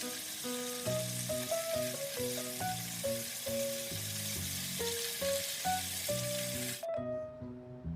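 Food frying in a pan with a steady sizzle that cuts off suddenly near the end, over background music with a simple melody.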